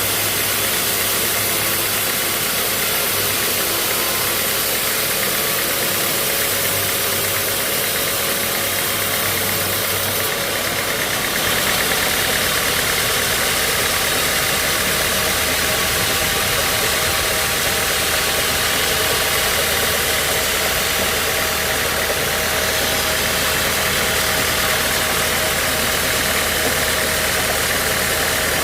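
Sawmill machinery running steadily: an engine with a lot of noise over it. About ten seconds in, its low note shifts and it gets slightly louder.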